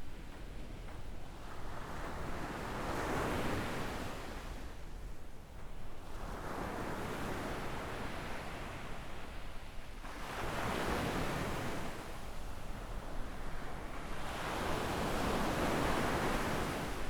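Small ocean waves breaking and washing up a sandy beach. The sound rises and falls in about four slow surges.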